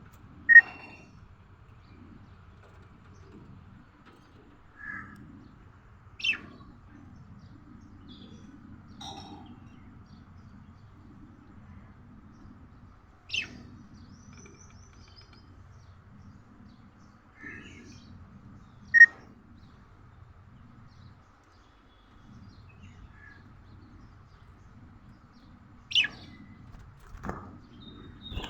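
Budgerigar giving short, separate chirps every few seconds, about ten in all, the loudest near the start and about two-thirds of the way through, over faint steady background noise.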